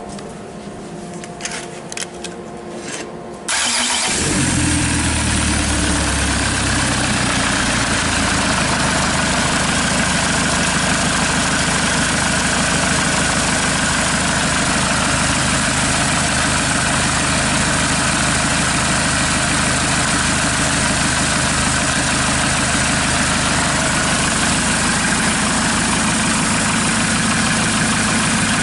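Kia Sorento's D4CB 2.5-litre four-cylinder turbodiesel, running out of the car, starts about three and a half seconds in after a few faint clicks. It catches, flares up and settles within a few seconds to a steady idle.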